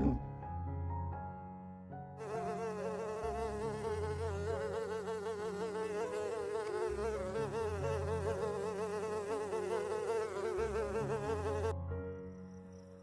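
Honeybee buzzing in flight among flowers, a steady drone whose pitch wavers up and down. It starts about two seconds in and cuts off near the end.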